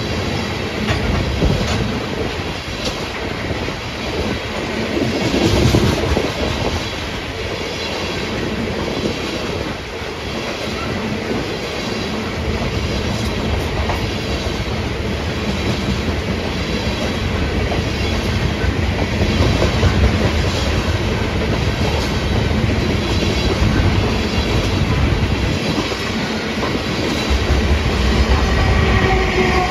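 Freight train of tank cars rolling past: a steady rumble of steel wheels on rail, with the wheels clicking over rail joints. Near the end, the steady pitched sound of an approaching diesel locomotive begins to come in.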